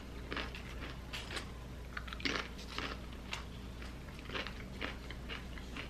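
Close-miked chewing of a tortilla chip, with soft, irregular crunches several times a second.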